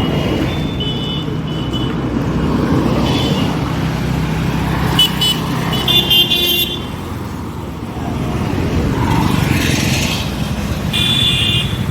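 Road traffic running with a steady rumble, with vehicle horns honking in short blasts several times, about a second in, around three seconds, twice more around the middle and again near the end.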